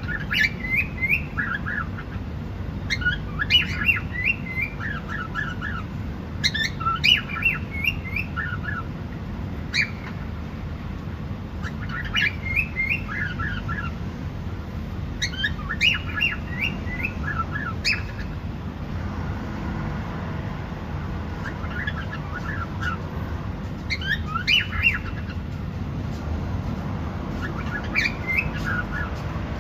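Cockatiel singing: short phrases of quick chirps and whistles, repeated every few seconds over a steady low hum.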